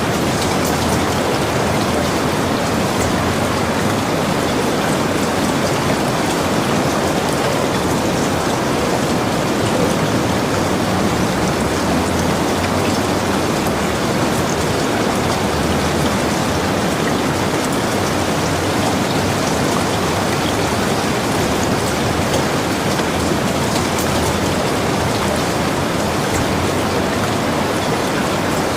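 Steady rainfall, drops pattering densely on surfaces at an even level throughout.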